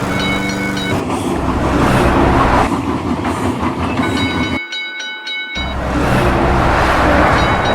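Train running with a low rolling rumble, its horn sounding twice: a short blast at the start and a longer one about four seconds in, during which the rumble briefly drops out.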